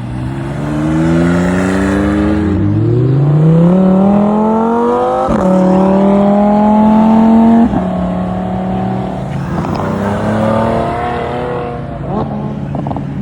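Car engine accelerating hard, its pitch climbing steadily. It shifts up about five seconds in, pulls again and then lets off, settling to a lower steady drone that slowly fades.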